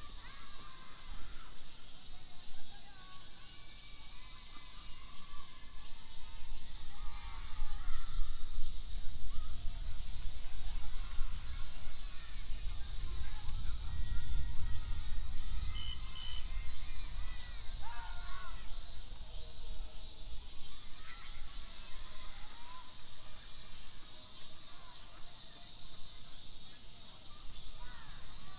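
Outdoor park ambience: scattered bird calls, crows cawing among them, over a steady high-pitched hiss and a low rumble that swells in the middle.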